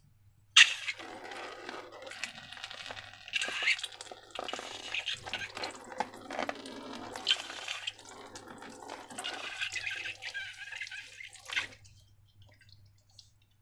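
Wet slime squelching and dripping as it is handled, starting sharply about half a second in and stopping about two seconds before the end.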